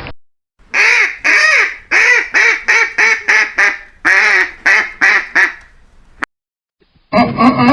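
A duck quacking: about a dozen quacks in quick runs, most loud at the start of each run and fading within it. Near the end, a different, steadier animal call cuts in loudly.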